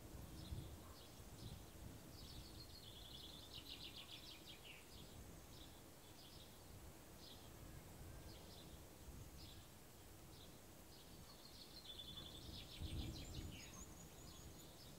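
Small birds chirping repeatedly, about once a second, with two longer fast trilled songs, one a couple of seconds in and one near the end. A faint low rumble runs underneath and swells briefly near the start and near the end.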